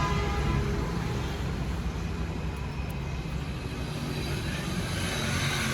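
Low, steady rumble of vehicle traffic, with no clear bird call.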